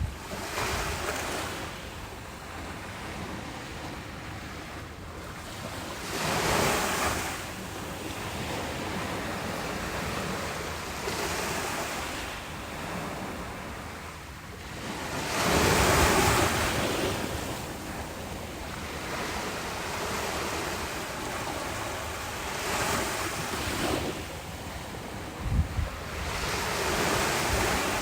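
Ocean waves breaking and washing on a beach, a steady hiss of surf with a swell roughly every five to ten seconds, the biggest about sixteen seconds in. Wind buffets the microphone in a few short low thumps near the end.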